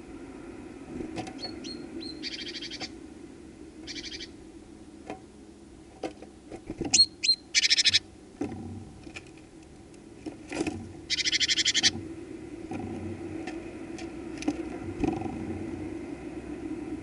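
Garden birds calling close to the feeder: a few short high chirps and several loud, harsh rattling calls, the longest about a second long near the middle, with scattered sharp taps. A steady low hum of traffic runs underneath.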